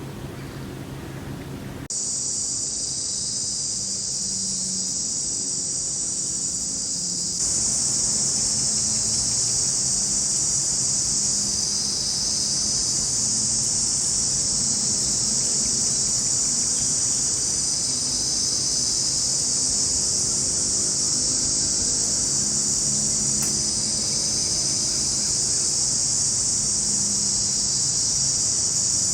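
Dense, steady chorus of forest insects, a high shrill buzz. It starts suddenly about two seconds in and gets louder about seven seconds in. A faint low hum runs underneath.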